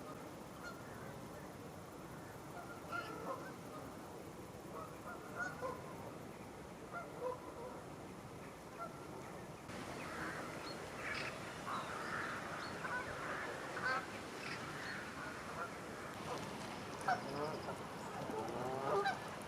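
Geese honking: many short calls, some overlapping. The calls grow louder and more frequent about halfway through.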